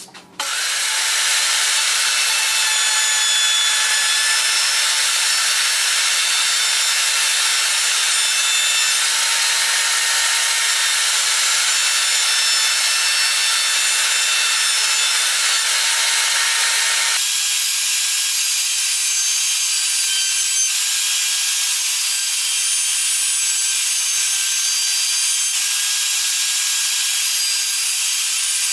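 Continuous, even rasping noise of wood being worked, with no separate strokes; the lower part of the sound drops away abruptly about 17 seconds in.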